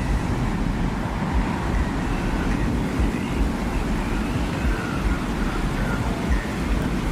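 Steady, deep desert wind rumble in a designed ambient soundscape, with faint, wavering higher whistles drifting in pitch through the middle.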